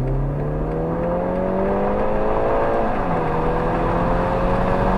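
Car engine accelerating hard, its pitch climbing, then dropping sharply at a gear change about three seconds in and climbing again as it pulls in the next gear.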